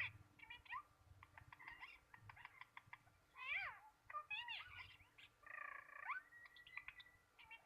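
A pet bird calling: a series of whistled calls that sweep up and down in pitch, a run of quick clicks about a second in, and a harsher, drawn-out call near six seconds.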